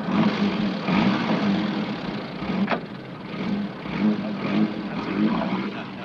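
Engine of a 1940s British saloon car running unevenly as the car sets off from the kerb, with one sharp click about two and a half seconds in.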